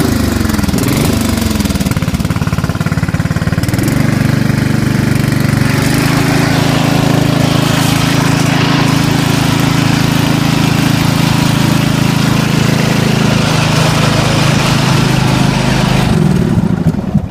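Craftsman LT4000 riding lawn tractor's engine running under load. Its pitch rises and falls for the first few seconds, then it holds a steady high speed and winds down near the end.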